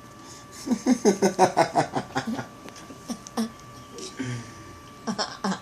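A person laughing in a quick run of short bursts for about two seconds, then a few more short bursts near the end.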